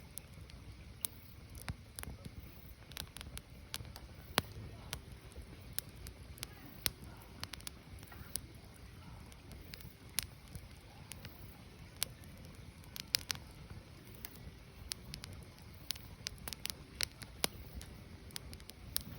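Firewood burning: irregular sharp crackles and pops over a steady low rumble.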